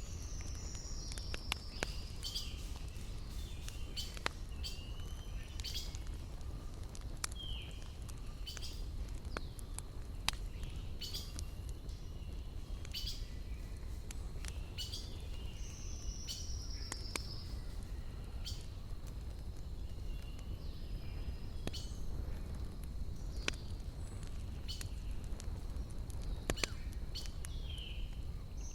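Campfire crackling, with irregular sharp pops from the burning wood over a low steady rumble. Birds sing in the surrounding forest: a high, falling phrase returns about every 14 seconds, with short chirps in between.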